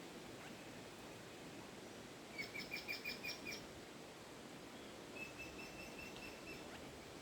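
A bird calling: a quick run of about seven sharp, high notes, then a couple of seconds later a second, softer run of evenly spaced notes, over a steady outdoor background hiss.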